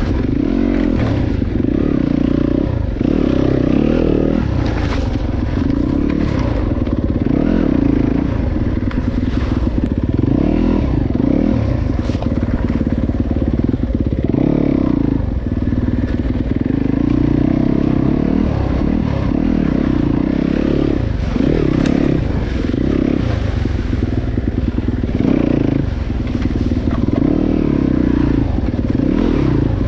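Dirt bike being ridden along a wet, muddy enduro trail, its motor rising and falling constantly with the throttle, mixed with knocks and scrapes from the bike working over rough ground.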